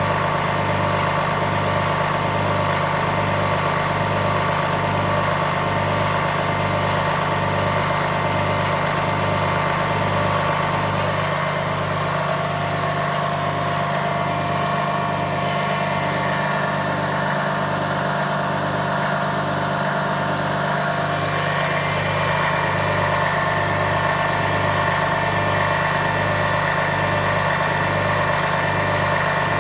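Homemade high-voltage impulse motor running steadily: a hum of several steady tones with a higher whine, over a low throb that pulses a little more than once a second.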